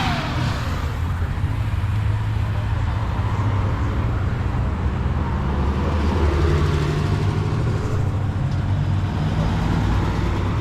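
Car engines running at low revs, a steady low rumble.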